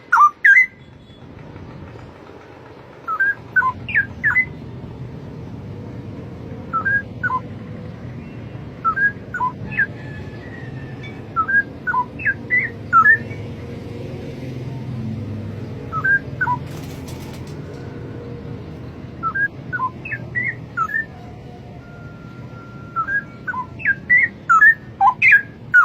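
Straw-headed bulbul singing: loud, short phrases of quick rising and falling whistled notes, repeated every few seconds over a steady low background rumble.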